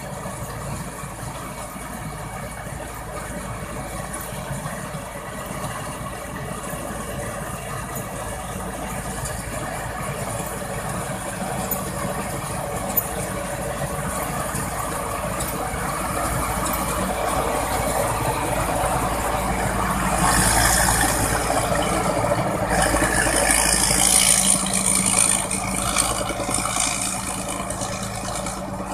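Rice combine harvester running, a steady engine drone with the rattle of its working mechanism, growing louder in the last third.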